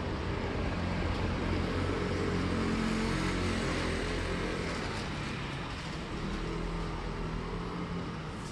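Street traffic: a motor vehicle's engine hum that swells to a peak about three seconds in and then slowly fades, over general city street noise.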